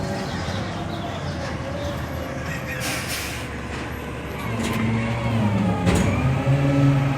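Diesel engine of a CCC rear-loader garbage truck running, with a short hiss of air about three seconds in, then the engine revving up and running louder near the end.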